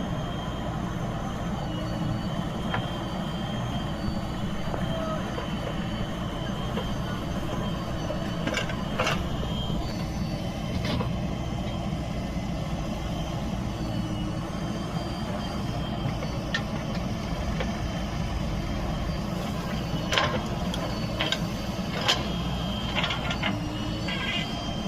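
Heavy machinery engine running steadily, with a faint high whine over the rumble and a few sharp knocks or clanks.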